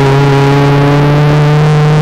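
Renault Twingo race car's four-cylinder engine heard from inside the cabin, pulling hard in gear with its note slowly rising as the car accelerates.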